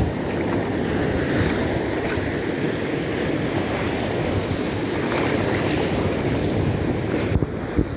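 Surf washing onto a stony beach in heavy waves, a steady loud wash, with wind buffeting the microphone.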